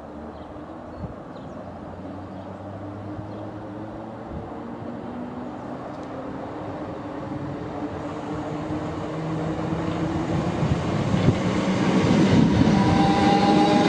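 Govia Thameslink Class 319 electric multiple unit approaching along the platform, its running noise growing steadily louder, with a whining tone building up over the last few seconds.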